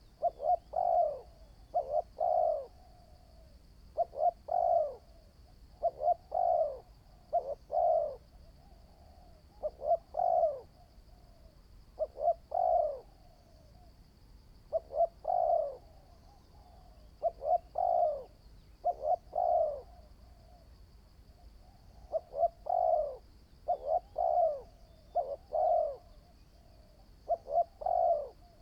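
Spotted dove cooing over and over, short phrases of two or three low coos every second or two. It is a caged bird being trained as a calling decoy.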